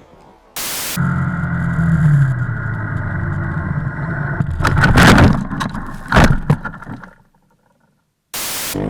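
Motorcycle engine running steadily, with loud knocks about five and six seconds in. It cuts out, with short bursts of hiss before and after.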